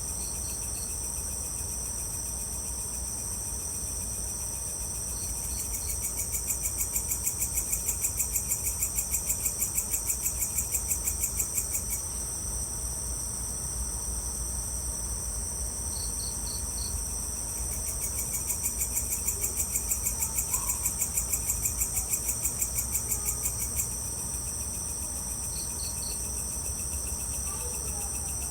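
A steady chorus of crickets and other insects trilling. Twice a louder pulsing insect call swells in for about six seconds, about four pulses a second, and every few seconds comes a quick group of three short chirps.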